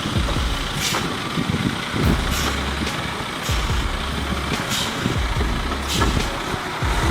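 Heavy truck running with a steady rumble whose low part swells and drops at fairly even intervals, with several short sharp hisses through it.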